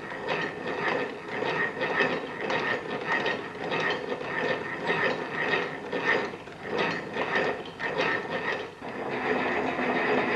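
Bryan Donkin's 1820 geometric lathe (rose engine) running, its gears and mechanism clicking and clattering in an uneven rhythm of a few clicks a second.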